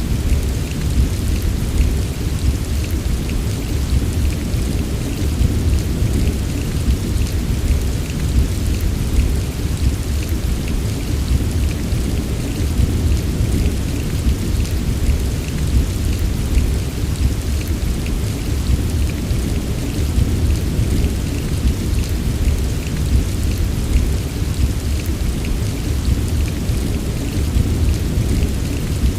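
Steady heavy rain, an even wash of drop patter over a constant deep rumble, with no single clap or break.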